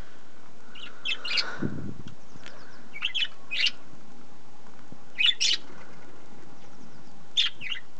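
A flock of budgerigars chirping and chattering in short high bursts every second or two.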